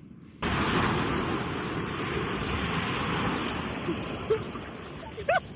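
Steady rush of ocean surf, starting suddenly about half a second in.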